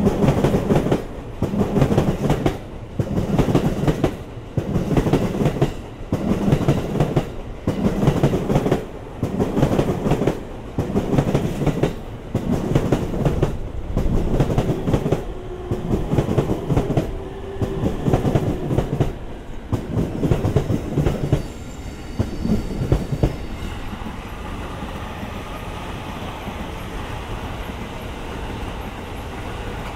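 Train wheels clattering over rail joints as a train comes into a station, a loud clack about once a second, spacing out slightly as it slows. About 21 s in the clatter gives way to a steady rumble.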